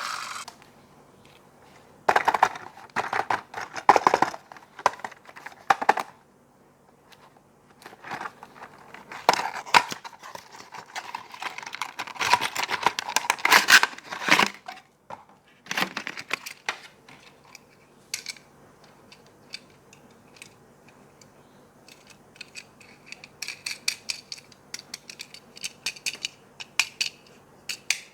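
Toy packaging being handled and opened: bursts of crinkling and tearing plastic and cardboard through the first half, then a run of small, sharp plastic clicks and taps.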